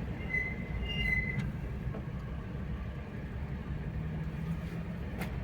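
Vehicle driving, with a steady low engine and road rumble. A high-pitched horn toot sounds for about the first second and a half.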